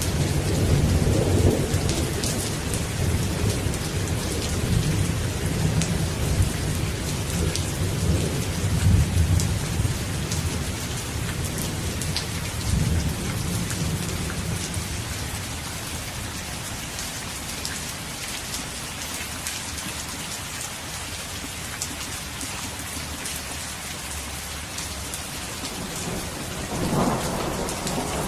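Steady rain with rolling thunder: a long low rumble over the first half that fades away, and another thunderclap building near the end.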